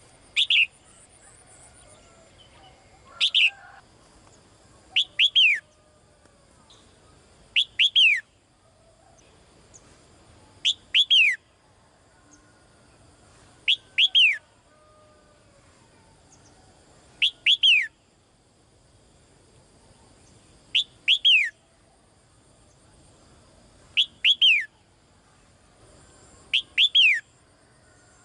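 A female songbird calling to a male. It gives about ten short bursts, roughly every three seconds, each of two or three quick notes falling sharply in pitch.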